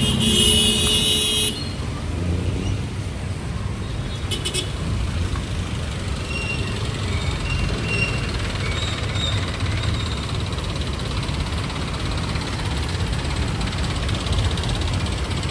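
Street traffic: a vehicle horn held until about a second and a half in, a short beep at about four seconds, then a steady low rumble of engines and road noise.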